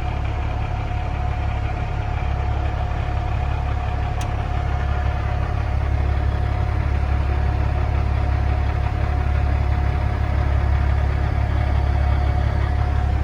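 Kenworth T800 semi truck's natural-gas (CNG) engine idling steadily: an even low rumble with a steady mid-pitched tone over it.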